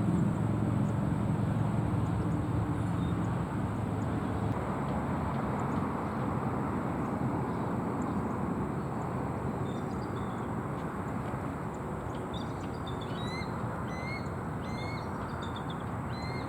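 Bald eagles calling: a run of short, high, rising chirps in the second half, over a steady background hum. A low engine drone fades out in the first few seconds.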